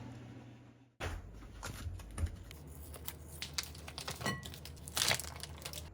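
Crinkling and tearing of packaging, with scattered light clicks and a couple of louder snaps, after a steady hum fades out in the first second.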